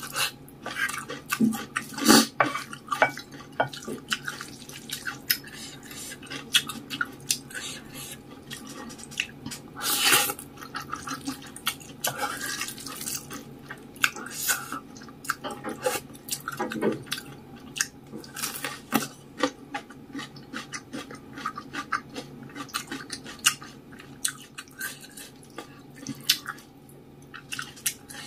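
Close-miked eating of saucy instant noodles and rice: chewing and slurping as many small wet clicks, with a few louder bursts and an occasional clink of cutlery on a dish.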